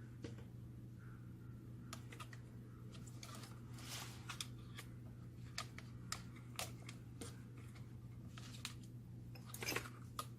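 Light, irregular clicks and taps of small parts being handled, over a steady low hum.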